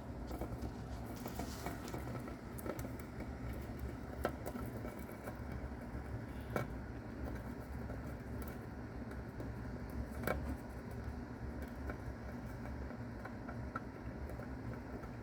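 Steady low hum with a few scattered sharp clicks and faint ticks over it, the three clearest spread several seconds apart.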